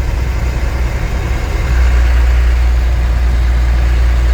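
1993 Dodge W250 Power Ram's 5.9-litre Cummins inline-six turbo diesel running with a steady low drone, getting louder about two seconds in.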